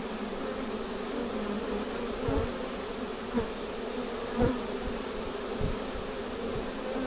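A honey bee swarm buzzing in a steady hum, with a few soft low thumps.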